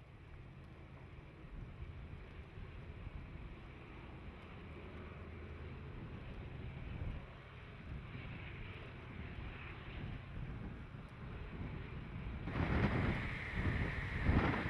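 Diesel locomotives of a train on Cajon Pass: a low engine rumble that slowly grows louder. About three-quarters of the way in, a much louder rush of train noise and wind on the microphone starts suddenly.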